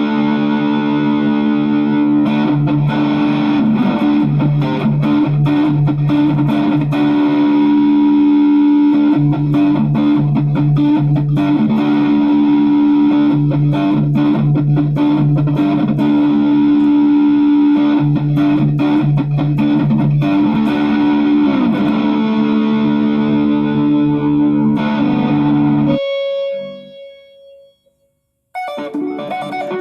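Electric guitar with a Duncan-style treble bleed on its volume pot, played through distortion: sustained chords and riffs. Near the end the playing stops, a last note fades out, and after about two seconds of silence the playing starts again.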